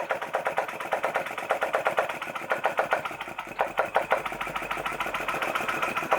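Small Chinese-made flame licker (vacuum) engine running with a fast, rapid clatter of regular beats that swells and dips in loudness. It is running after a fashion but not quite right, which the owner thinks needs tweaking.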